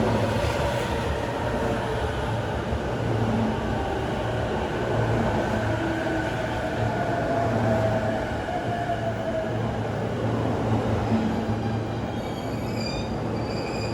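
Electric commuter train running on the rails, with a steady low hum and a motor whine that slides in pitch. High-pitched wheel squeal comes in near the end.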